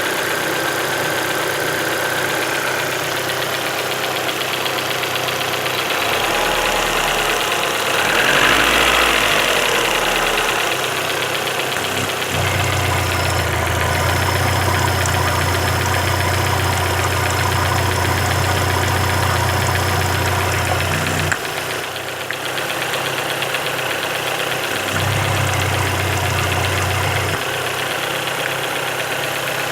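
Car engine running at idle with a knock whose cause is being sought. The engine note rises briefly about a third of the way in, and a deeper hum comes and goes twice.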